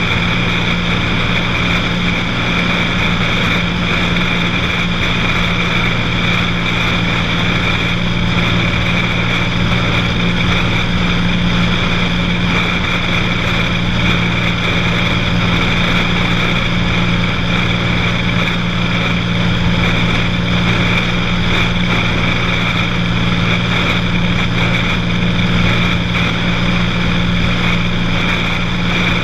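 Cessna 182 single-engine piston aircraft in flight, its engine and propeller droning steadily at constant power.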